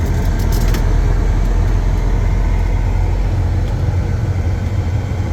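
Semi-truck engine and road noise heard from inside the cab while driving: a steady, loud low drone.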